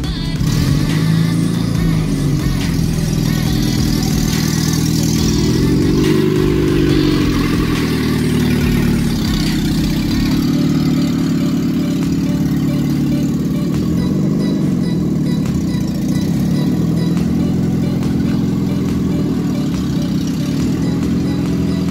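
Renault 12 four-cylinder 1289 cc carburettor engine, swapped into a VW T2 bus, running at idle. The revs rise and fall twice, about a second in and again around six seconds in.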